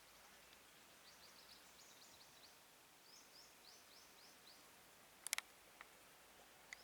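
Faint bird calls: two runs of quick, high, downward-sliding chirps over a quiet background. About five seconds in come two sharp clicks close together, then a couple of softer ticks.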